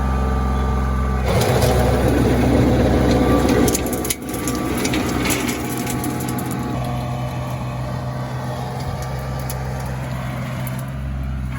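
RK25 compact tractor's engine running steadily while it drives a Woods 72.40 six-foot PTO rotary tiller. About a second in, a loud rough churning of the tines through soil starts; it drops sharply near four seconds and goes on more quietly until about seven seconds, leaving the steady engine hum.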